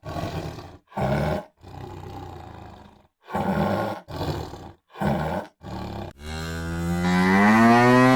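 A tiger growling in a run of short, rough roars, then from about six seconds in a cow lowing in one long, drawn-out moo that rises a little and falls away at the end.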